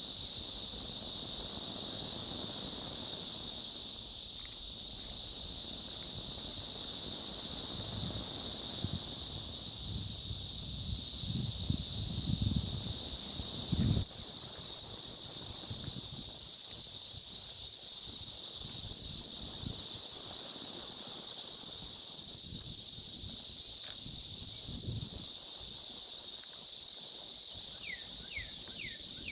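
A dense chorus of cicadas giving a steady, high-pitched drone that does not let up. Some low rumble, likely wind or handling on the microphone, comes in around the middle.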